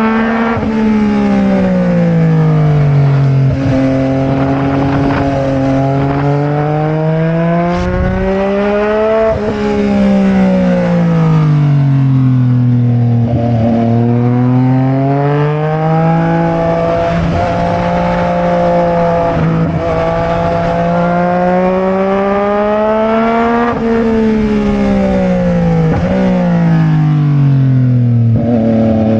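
Sport motorcycle engine heard from on board, pulling and easing off again and again: its pitch climbs, falls and holds steady for stretches, with brief dips that mark gear changes.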